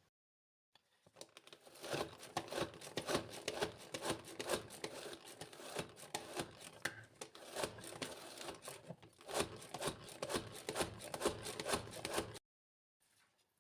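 Kitchen food-preparation handling: rapid, irregular scraping and rustling, starting about a second in and cutting off sharply near the end.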